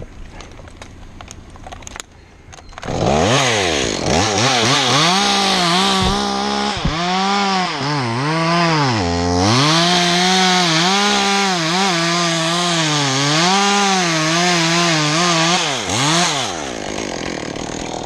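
Two-stroke chainsaw revving up about three seconds in and cutting into a pine spar, its engine pitch dipping and recovering several times under load in the wood, then falling back to idle near the end.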